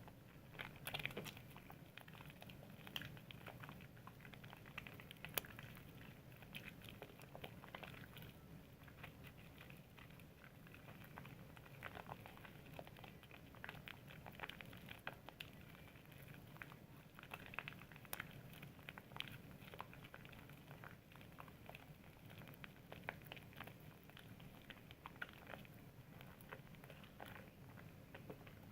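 Soap being lathered by hand: faint, soft wet squishing with many small irregular clicks and crackles.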